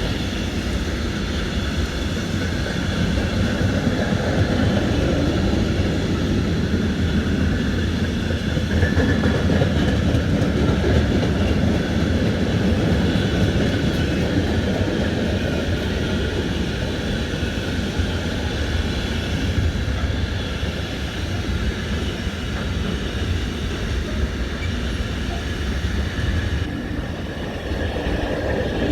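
A train running on the rails: a steady rumble with a faint high whine over it, a little louder for a while in the first half.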